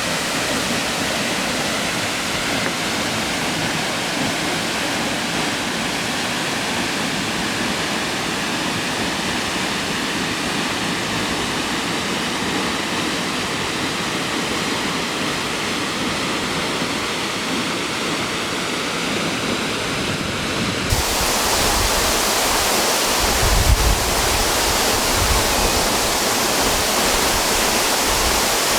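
Waterfall rushing steadily, a continuous roar of falling water. About twenty seconds in, it turns abruptly louder and fuller, with a deeper low rumble.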